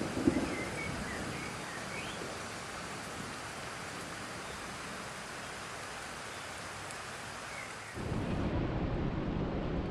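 Steady rain hiss with a rumble of thunder right at the start, then fading to even rainfall. About eight seconds in it cuts abruptly to a louder, deeper rushing noise.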